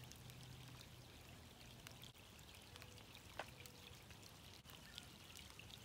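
Light rain falling on a lake's surface, a faint patter of many small scattered drops.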